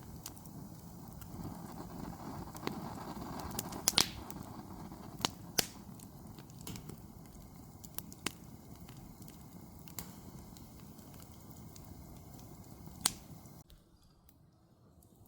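Campfire burning with a steady hiss and irregular sharp crackles and pops from the wood. It cuts off suddenly near the end.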